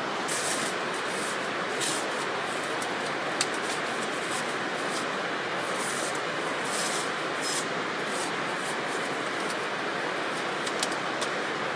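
Wood fire crackling and popping, with scattered sharp snaps and short hissing spurts over a steady rushing noise.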